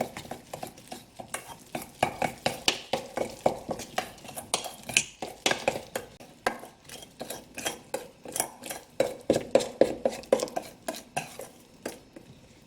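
Utensil stirring cornbread batter in a bowl: rapid, rhythmic clinks and scrapes against the bowl, about three strokes a second, stopping near the end.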